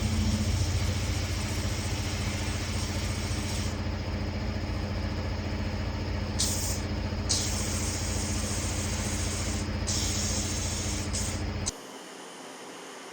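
Electric machine running with a steady mains hum and a loud hiss that thins and returns several times in its upper range, then cuts off suddenly near the end.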